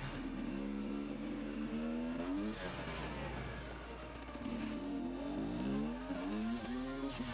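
Off-road motorcycle engine revving under acceleration, its pitch climbing and sweeping up twice, with a break about two and a half seconds in.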